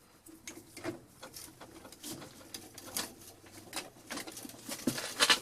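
Vintage hand-crank drill being turned, its gears ticking and clicking irregularly as a small twist bit bores slowly into wood, with a louder run of clicks near the end.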